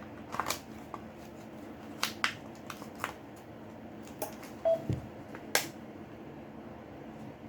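Scattered sharp clicks and light taps at irregular intervals, with one dull low knock near the middle, from small parts and tools being handled while a Samsung J6 smartphone is taken apart.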